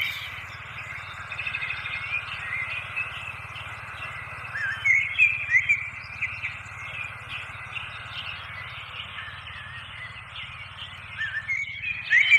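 Several small birds chirping and twittering in short, quick rising notes, busiest around five seconds in and again near the end, over a steady background hiss and a faint low hum.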